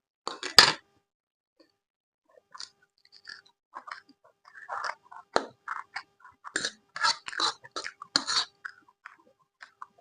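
Close-miked person eating: a loud crunchy bite about half a second in, then a run of irregular chewing and crunching sounds.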